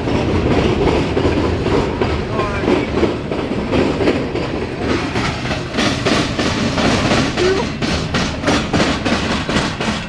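Steel coil cars of a freight train rolling past at a crossing, steel wheels rumbling and clicking over the rail joints. The clicks grow denser and sharper in the second half, then the noise falls away near the end as the last car moves off.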